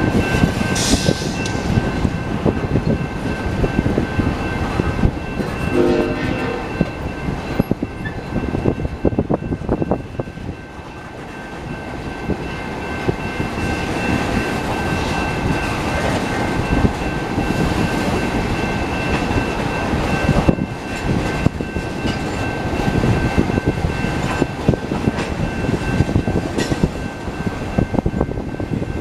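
BNSF freight train rolling past, its wheels clattering and rumbling over the rails, with a steady high tone underneath. A short horn note sounds about six seconds in.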